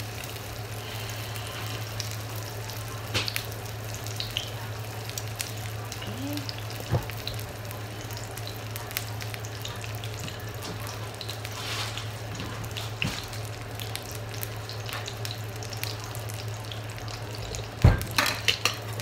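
Pork spring rolls (lumpia) frying in oil in a pan: a soft steady sizzle with scattered small crackles, over a low steady hum. Near the end comes a loud sharp knock, then a few quieter clatters.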